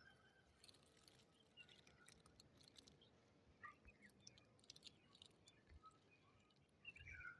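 Near silence with faint, scattered bird chirps and small clicks.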